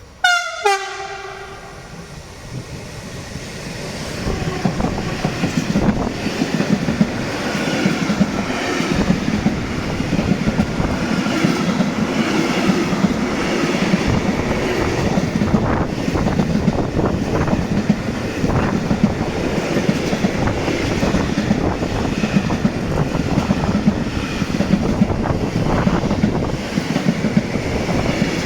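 A freight train passing through a station: a brief horn blast with a sharply falling pitch right at the start, then the wagons rolling by, loud and steady, with wheels clicking over the rail joints.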